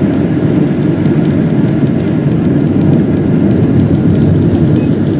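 Steady, loud cabin noise inside a Boeing 777-200ER airliner: the rumble of engines and airflow heard from a window seat.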